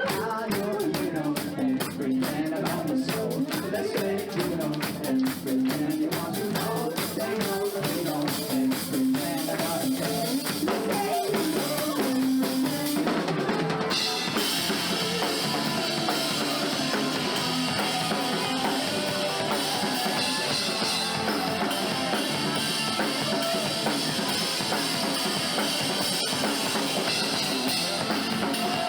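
Live rock band playing without vocals, the drum kit to the fore with bass and guitar under it. About halfway through, cymbals and fuller guitar come in and the sound thickens.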